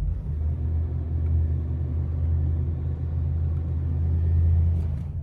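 1968 Lincoln's V8 engine idling steadily just after a cold start, a low even rumble.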